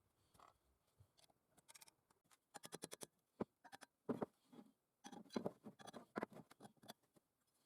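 Light clicks and taps in quick clusters: a rapid run about two and a half seconds in, then louder groups of taps in the second half.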